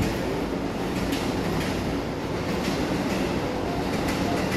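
Tobu Tojo Line electric commuter train starting to pull out from the platform: a steady low motor hum with a few clicks from the wheels, and a tone beginning to rise near the end as it picks up speed.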